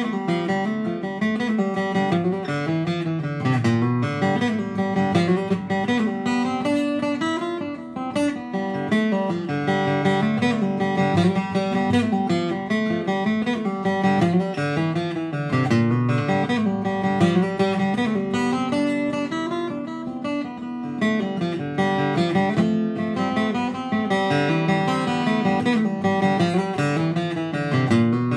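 Acoustic guitar playing a tune, picked notes over a moving bass line.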